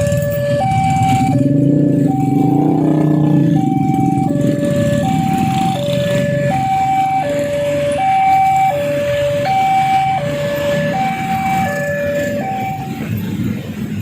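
Indonesian railway level-crossing warning alarm sounding its two alternating tones, high and low, about every 0.7 s, which signals that a train is coming and the gates are closing; it stops near the end. A low rumble runs underneath.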